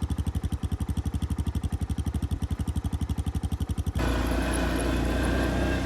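ATV (4-wheeler) engine: a loud, even putter of about a dozen beats a second, then abruptly, about four seconds in, a steady higher-revving drone as it is ridden.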